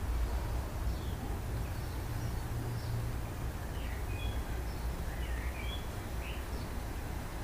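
Garden ambience: a steady low rumble with faint, short bird chirps scattered over it, several in quick succession around the middle.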